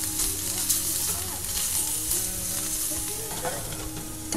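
Meatballs and breaded chicken sizzling as they fry in pans on the stove, a steady hiss of frying with a few light knocks of a wooden spatula.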